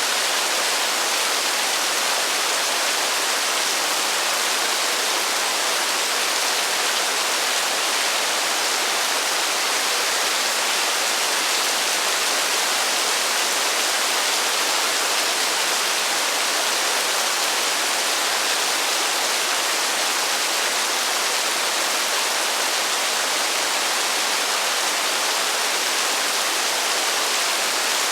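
Heavy rain falling as a steady, even hiss, with no thunder and no separate drops standing out.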